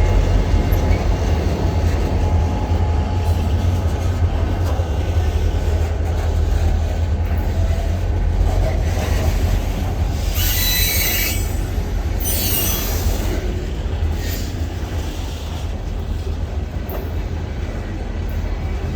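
Freight train rolling past, with a steady heavy rumble of wheels on rail. Short high wheel squeals come about ten and twelve seconds in, and the sound slowly eases toward the end.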